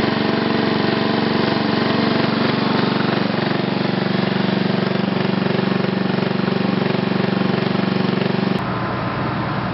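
A vehicle engine idling steadily with an even pulse. A little before the end it breaks off suddenly into a quieter, rougher rumble.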